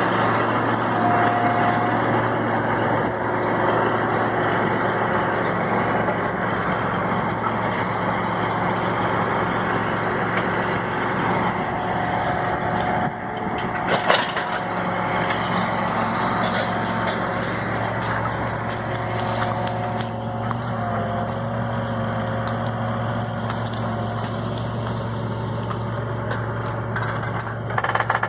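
John Deere 8530 tractor's six-cylinder diesel running steadily under way while pulling a Horsch CO 9 seeder, with one sharp knock about halfway through.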